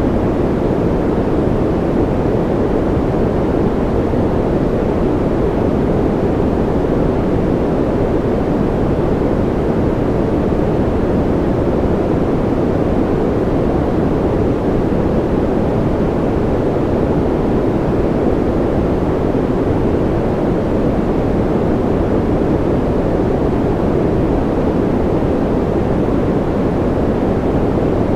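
Synthetic white noise, steady and unchanging, with most of its energy low so it sounds more like a dull rush than a hiss.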